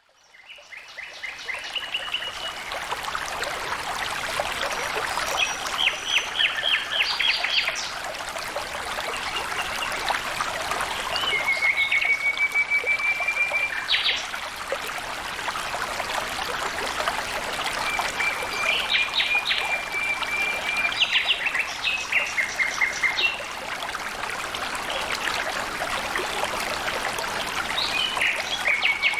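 Flowing stream water running steadily, fading in over the first couple of seconds, with birds singing over it: quick runs of repeated chirps and several long, level trills that each last a few seconds.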